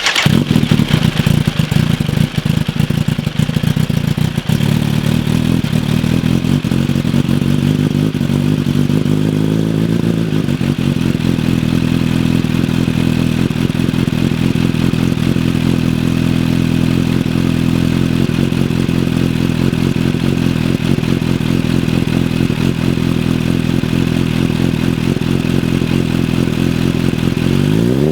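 Kawasaki Ninja H2's supercharged inline-four, fitted with an Akrapovic canister and a titanium mid-pipe with the catalytic converter removed, starting from cold and idling. Its note shifts about ten seconds in, then holds at a steady idle.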